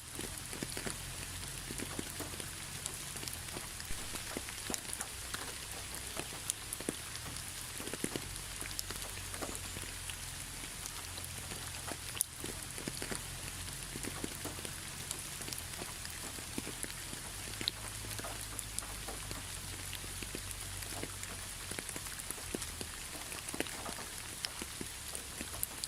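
Steady rain falling, with many separate drops ticking on a hard surface.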